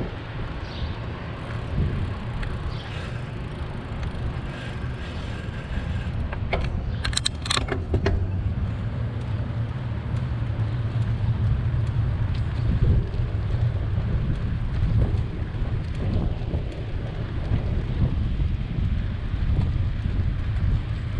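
Steady low rumble of wind on the microphone and road traffic while cycling along a city street, with a brief jangling rattle about seven seconds in.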